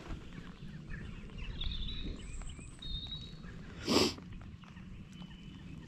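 Outdoor lakeside ambience with a few faint high bird chirps about two and three seconds in, and one short sharp sound about four seconds in.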